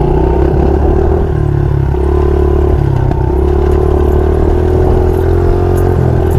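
Dirt bike engine running at a steady speed, its pitch holding nearly level with only slight rises and dips.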